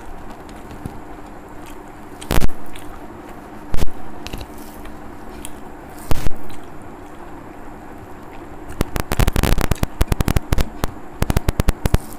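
Close-miked chewing of rice and fried egg eaten by hand: a few separate loud mouth clicks, then from about nine seconds in a fast run of wet smacking chewing sounds.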